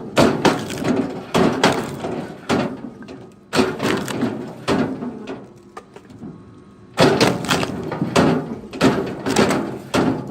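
Chunks of cut wood being thrown down: a rapid series of loud wooden knocks and clatters, broken by two short pauses.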